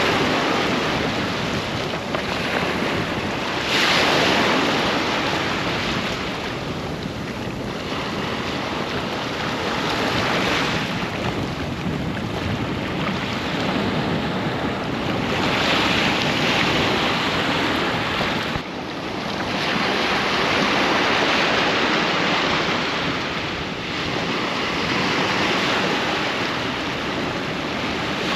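Ocean surf breaking on a sandy beach, waves washing in and drawing back in swells every few seconds.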